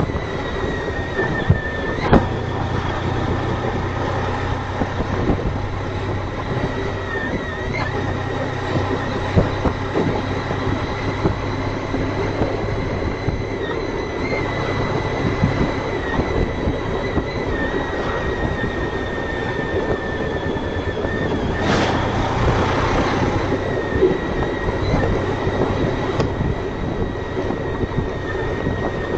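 Honda ST1300 motorcycle under way: a steady run of engine and road noise with a constant high-pitched whine, and a louder rush of noise about two-thirds of the way through.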